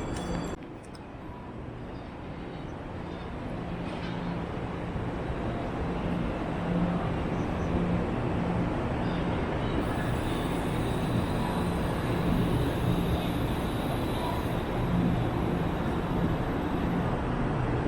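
Steady hum and rushing noise of a Fuxing high-speed train standing at the platform, with a low drone underneath. It grows louder over the first several seconds and then holds steady, with faint voices in the background.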